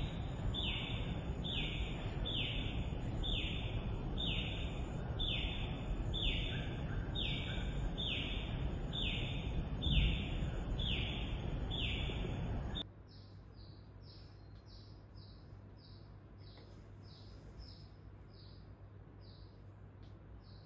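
A bird calling a short falling note over and over, about twice a second, over a steady rushing noise. About two-thirds of the way through, the rushing noise cuts out abruptly and the calls carry on quieter and higher.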